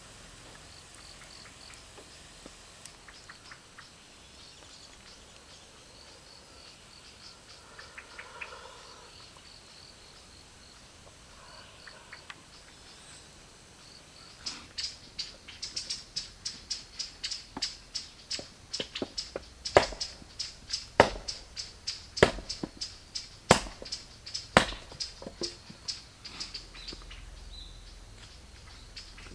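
Insects chirping high and steadily in a pulsing rhythm. About halfway through, a fast, even run of sharp clicks starts, with about five louder cracks standing out among them.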